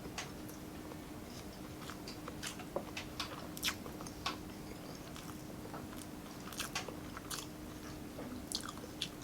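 Close-up eating sounds: a person biting and chewing food, with irregular small clicks and crunches from the mouth. A faint steady hum sits underneath.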